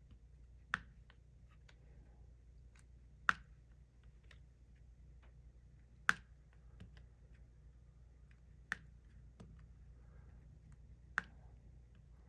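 Diamond painting drill pen pressing resin drills onto the sticky canvas: five sharp pops about every two and a half seconds, with fainter taps and ticks of the pen and drills between.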